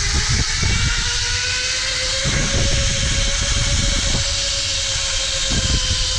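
Zipline trolley pulleys running fast along a steel cable: a whine that rises slightly in pitch, then holds steady, over a heavy rush of wind on the microphone with occasional buffeting knocks.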